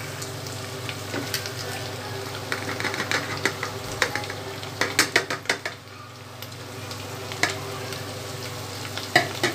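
Minced meat and onions sizzling in a pressure cooker, with a run of sharp clinks and taps a few seconds in as spices are tipped and scraped off a ceramic plate into the pot. The sizzle dips briefly around the middle, and two more taps come near the end.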